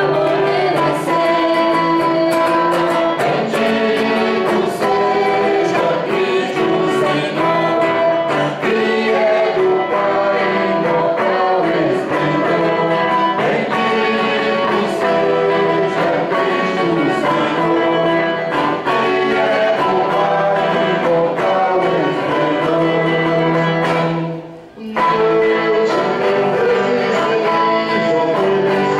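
Church hymn sung by voices with guitar accompaniment, with a brief break about three-quarters of the way through.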